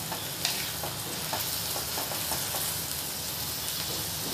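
Wild mushrooms sizzling in mustard oil in a steel kadhai, stirred with a spatula that scrapes the pan now and then. They are frying on medium heat and have begun to give off their water.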